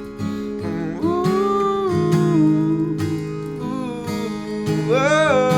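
Music: a steadily strummed acoustic guitar, with a wordless sung vocal line that slides and holds over it about a second in and again near the end.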